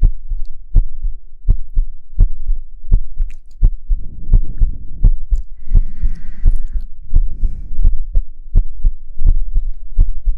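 Slow, even, heartbeat-like thumps, a little over one a second, over a deep low hum, with a brief soft hiss about six seconds in.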